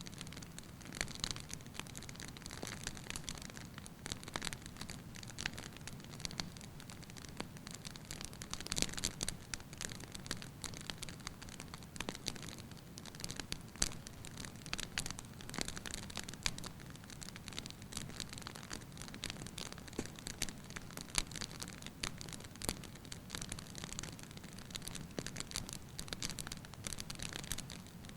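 Wood fire burning in a fireplace: logs crackling and popping in irregular sharp snaps over a soft steady hiss of flame.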